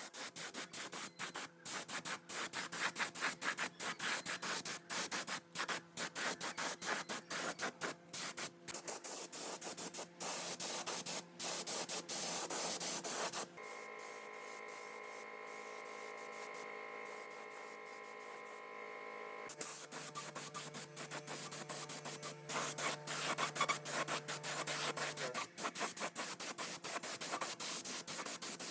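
Hissing spray in choppy, stop-start bursts over background music with sustained notes. The hiss stops for several seconds in the middle, leaving only the music, then starts again.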